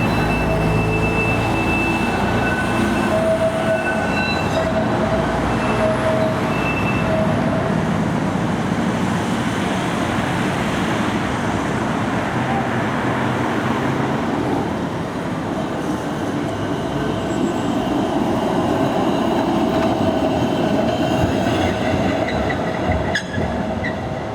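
Blackpool Balloon double-deck tram running slowly round a turning loop, its steel wheels rumbling on the rails. High-pitched wheel squeal comes and goes during the first eight seconds and again later on, as the flanges grind round the curve.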